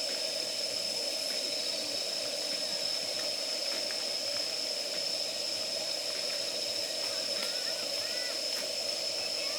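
Separate-canister gas burner running with a steady hiss, its flame held to damp firewood to force it to light.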